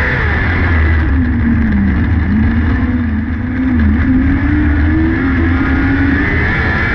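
600cc micro sprint car engine running hard in a race. The engine note dips about a second in, as when the driver lifts off the throttle, then climbs back and wavers as the throttle comes back on.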